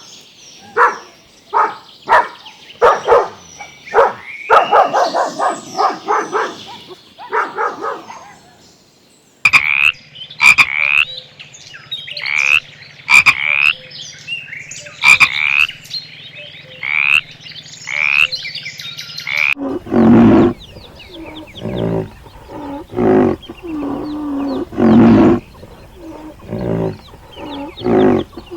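Repeated animal calls in three runs. First come quick pulsed calls. After a short pause, a high call repeats about once a second. From about twenty seconds in, lower-pitched calls follow.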